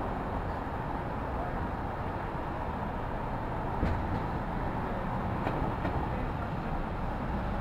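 City street ambience: a steady hum of road traffic, with two faint knocks, one about four seconds in and another a second and a half later.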